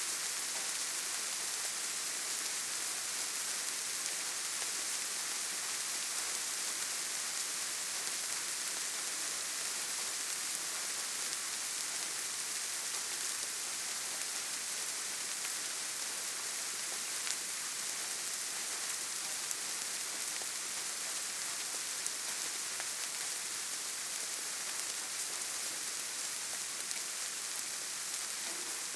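Steady rainfall in a forest, an even hiss with a few faint drop ticks.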